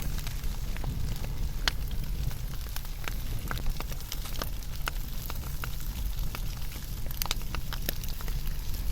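Wood fire burning, with frequent sharp crackles and pops at irregular intervals over a steady low rumble.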